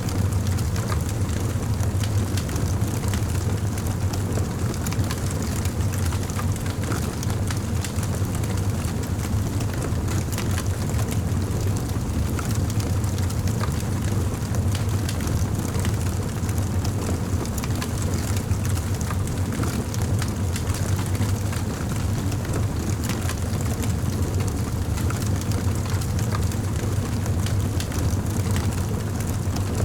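Campfire burning with a steady low rumble and frequent small crackles and pops.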